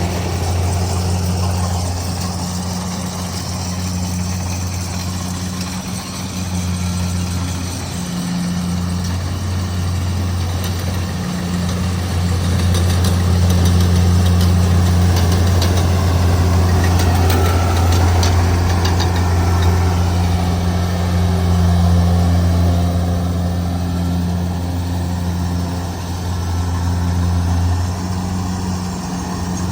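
Kubota DC70G Plus combine harvester's diesel engine running steadily with a deep, even hum, getting a little louder through the middle.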